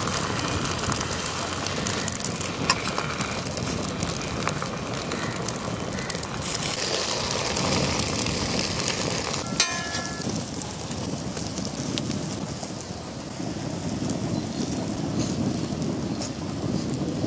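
Bread omelette frying in oil on a large iron tawa: a steady sizzle, with a couple of sharp clicks.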